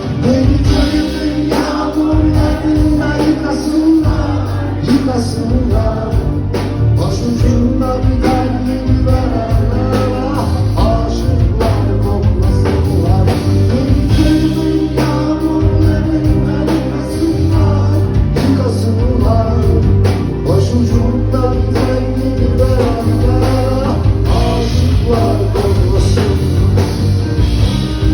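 Live rock band playing a song, with drum kit, bass and guitar, and singing over it.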